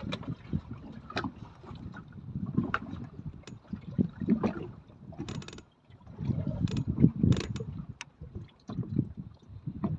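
Choppy water slapping against the hull of a small speedboat drifting with its engine off, in uneven surges with wind buffeting the microphone. A few sharp clicks and knocks, and a short hiss about halfway through.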